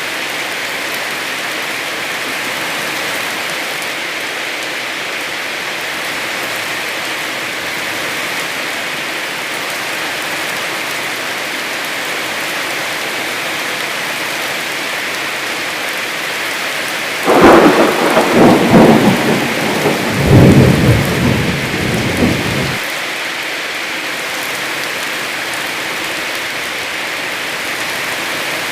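Heavy rain falling steadily, with a sudden loud thunderclap about seventeen seconds in that crackles and rumbles for about five seconds before the rain alone is left.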